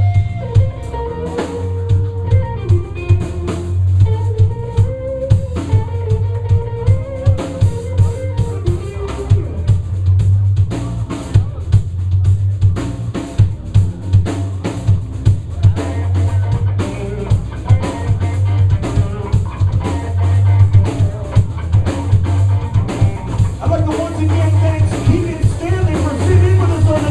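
Live blues band playing: a drum kit keeps a steady beat with snare and bass drum under electric guitar lines.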